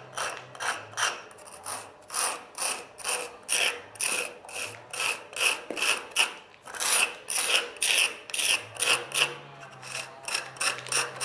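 A 7 mm steel spanner tooling the partly set mortar joints of brickwork: short scraping strokes of metal along the mortar, repeating at about two to three a second.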